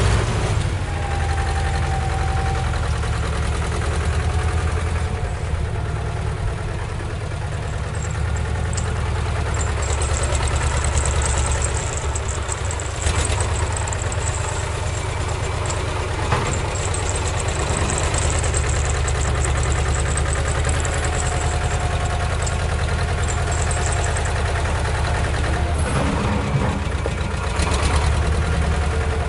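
An engine idling steadily with a low, even rumble, and faint high thin tones coming and going in the middle.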